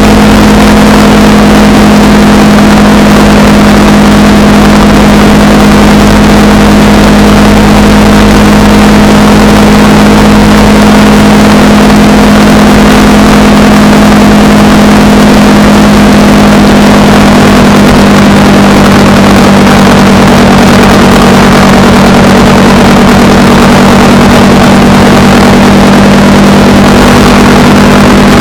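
Honda Rebel 300's single-cylinder engine holding a steady note at cruising speed, heard loudly with a constant rush of wind over the microphone.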